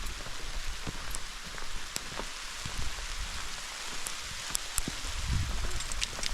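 Rain falling steadily: an even hiss with scattered sharp ticks of single drops striking close by, and a brief low rumble about five seconds in.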